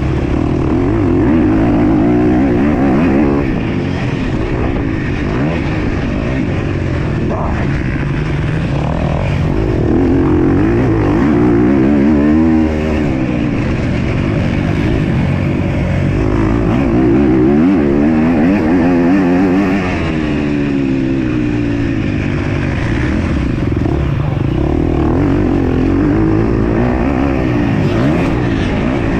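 MX2 motocross bike engine revving hard under racing throttle, its pitch climbing and falling again and again as the rider accelerates, shifts and backs off.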